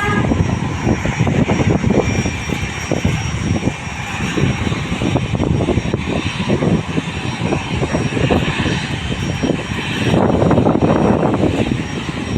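Loud aircraft engine noise: a deep, rough rumble with a faint steady high whine, swelling about ten seconds in.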